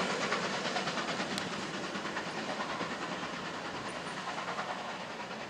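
Passenger coaches of a steam-hauled special train rolling away on the rails, their wheels clattering over the track joints and points, the sound fading steadily as the train recedes.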